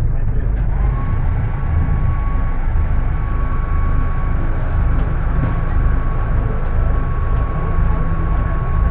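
Scania K250UB city bus engine running under way, a deep steady rumble with a thin high whine that sets in about a second in and holds on. The engine is running at high revs and 'screaming'.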